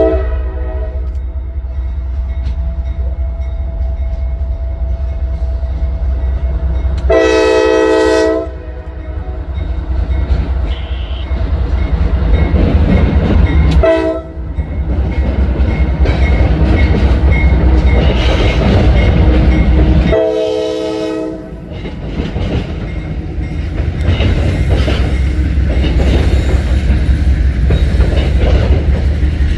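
Freight train locomotive passing with a steady low diesel rumble, its horn blown in blasts: a longer one about a quarter of the way in, a short one near the middle and another longer one about two thirds through. In the last third the rattle and clack of the train's wheels and cars grows over the rumble.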